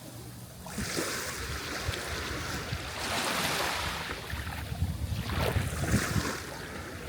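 Sea waves breaking and washing on the shore, with a wash that swells about a second in and again midway, and wind buffeting the microphone with low rumbles toward the end.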